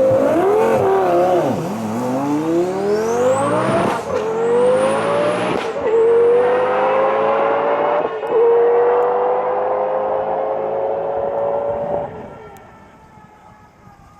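Twin-turbo Lamborghini Gallardo V10 accelerating hard down a drag strip, its engine note climbing through the gears with a brief dip at each upshift and a high whistle rising in the middle. The sound fades away over the last couple of seconds.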